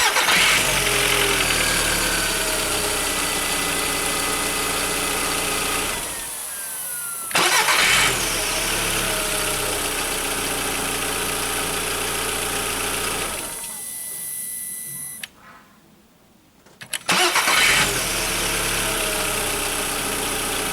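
Skoda Fabia 2.0 four-cylinder petrol engine started three times, about 7 and 10 seconds apart, each time cranking briefly and catching, then running steadily at idle until it is switched off. No squeal or whistle comes from the starter motor, which has just been repaired with new brushes and grease: the fault is cured.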